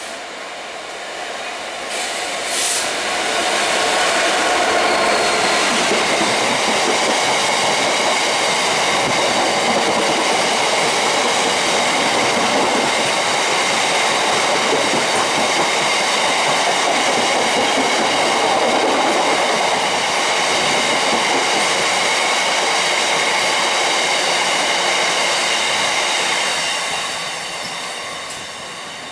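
Class 66 diesel locomotive hauling an aggregate freight train past at speed, with wagon wheels clattering over the track and a steady high-pitched wheel squeal. It builds over the first few seconds, holds loud and steady, then fades near the end.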